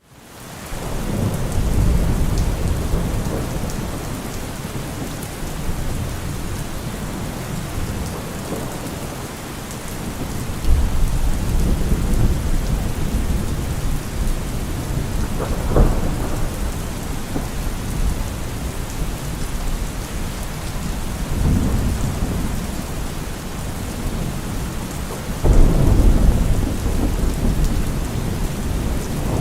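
Steady rain falling, with thunder rumbling low several times underneath; the last roll, near the end, is the loudest. The sound fades up over the first second.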